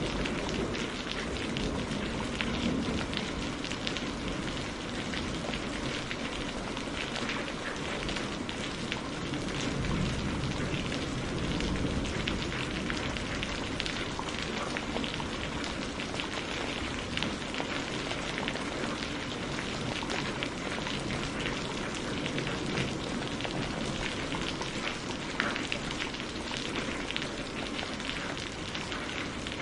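Steady rain falling on a surface: a continuous hiss of dense raindrop patter, with a low rumble swelling briefly near the start and again about ten seconds in.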